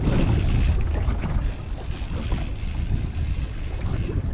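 Wind buffeting the microphone, a loud, steady low rumble over the wash of choppy water, with a few small knocks.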